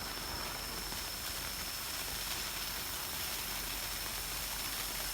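Silver-spark pyrotechnic waterfall, a 20-tube cascade, burning with a steady hiss.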